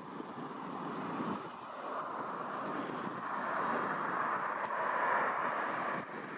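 Jet aircraft engine noise, a steady rushing that grows gradually louder as the aircraft nears.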